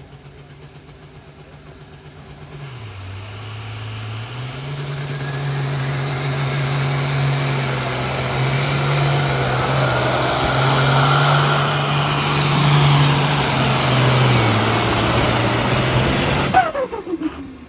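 A pulling vehicle's engine running hard under load as it drags a weight-transfer sled down the pulling track, growing steadily louder. Its pitch dips briefly about three seconds in and then holds high. It cuts off sharply near the end, when the run is over, leaving a short falling whine.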